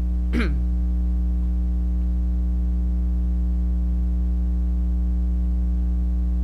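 Steady electrical mains hum with a ladder of overtones, loud and unchanging. A brief vocal sound, a single short syllable, comes about half a second in.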